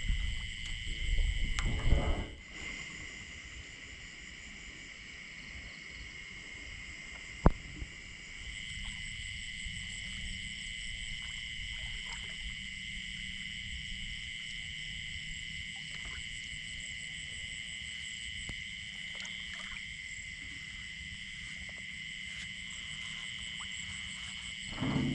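Night chorus of crickets and other insects, a steady high trilling that holds on throughout. A louder low noise fills the first two seconds, and a single sharp click sounds about seven seconds in.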